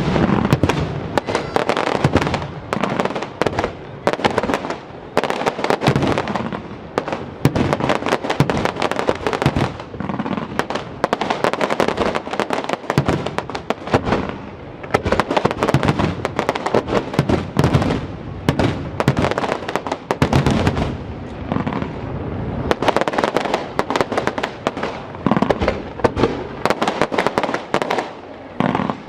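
Professional fireworks display with shells bursting one after another in a rapid, continuous string of bangs and crackles.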